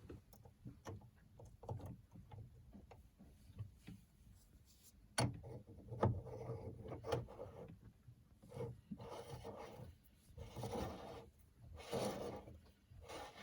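Scattered knocks and clicks with bouts of rubbing and scraping from hands working on parts around the engine compartment. The scraping comes in longer stretches in the second half. No engine is running.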